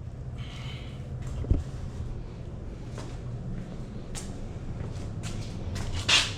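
Handling noises while working on a dirt bike: a sharp knock about a second and a half in, a few light clicks, and a short rustle near the end, over a steady low hum.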